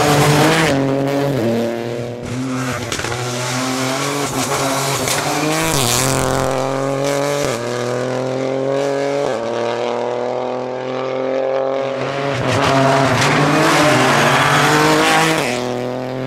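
Lancia Ypsilon Rally4 HF rally car's turbocharged three-cylinder engine pulling hard through the gears. Its pitch climbs and then drops sharply at each upshift, several times over. A rush of tyre and surface noise comes up loudest about two-thirds of the way through.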